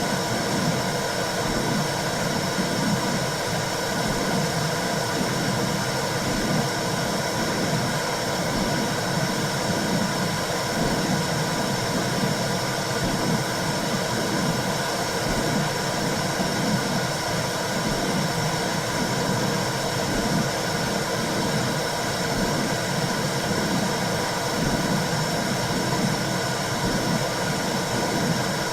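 Womb sound for calming a newborn: a steady, even whooshing hiss over a low, uneven rumble, continuous white noise that imitates the sound heard inside the womb.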